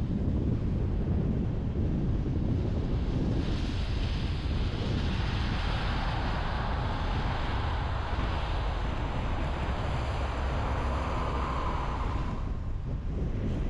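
Road noise of a car driving on a highway: a steady low rumble of tyres and wind. A rushing hiss swells a few seconds in and fades out near the end.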